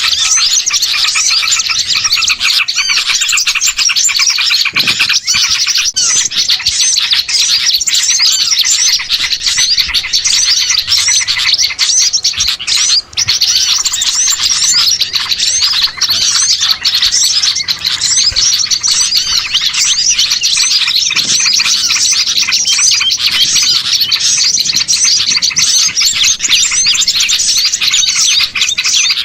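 Dense, noisy chorus of many small songbirds chirping and twittering over one another without a break, a lure recording for drawing small birds together.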